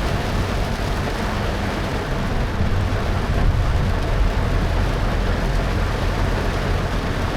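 A car driving on a wet road in heavy rain: a steady low rumble of engine and tyres under an even hiss of rain and road spray.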